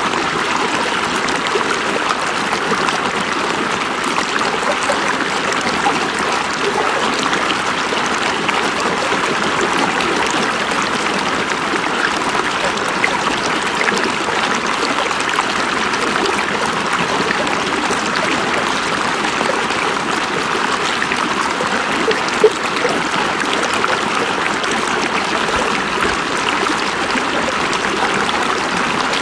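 River water flowing steadily over rocks, a continuous rushing and trickling with a brief sharper splash about two-thirds of the way through.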